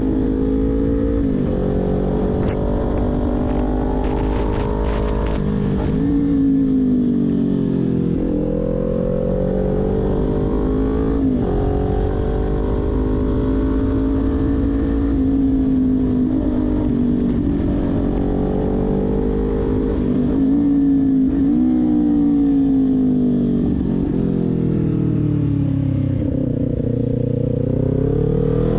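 Kawasaki Ninja 400 parallel-twin engine revving up and down as the motorcycle is ridden hard through a run of corners. Its pitch climbs on the throttle and falls sharply several times as the revs drop between bends.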